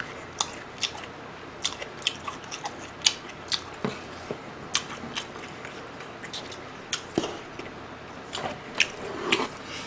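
A person chewing a mouthful of food, with short wet clicks and smacks of the mouth coming every second or so.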